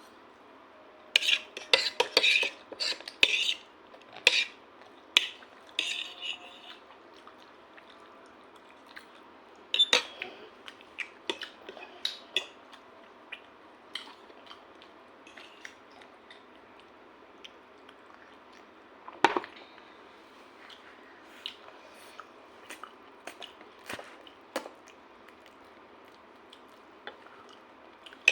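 Cutlery clinking and scraping against a dish while eating chowmein: a busy run of clicks and taps over the first few seconds, then scattered single taps.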